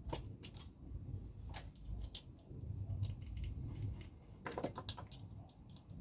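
Light clicks and small rattles of small parts and hand tools being handled on a workbench, with a quick cluster of clicks about four and a half seconds in.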